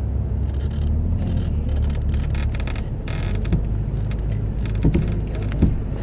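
A Jeep engine running at low, steady revs, heard from inside the cab as the Jeep crawls along a rutted dirt trail. A few sharp knocks come in the second half.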